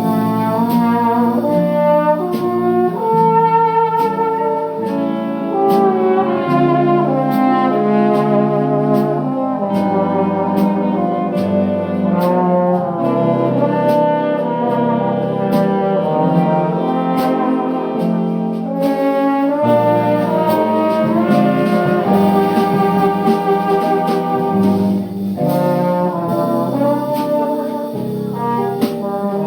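Big band music: a brass section of trombones and trumpets playing an up-tempo swing tune, with drums keeping the beat.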